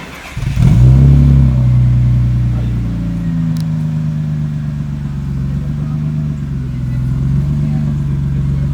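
BMW E30's newly swapped-in engine cranking and firing about half a second in, flaring briefly, then settling into a steady idle whose speed wavers slightly.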